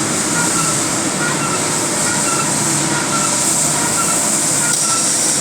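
Automatic 50 kg bag packaging machine running: steady mechanical noise with a constant high hiss, and short high chirps recurring every second or so.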